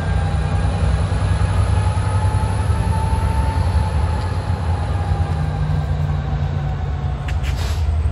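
Amtrak Piedmont passenger train hauled by EMD F59PH diesel locomotives, pulling away with a steady low diesel rumble and rail noise. A faint thin tone drifts up and back down in pitch through the middle of it.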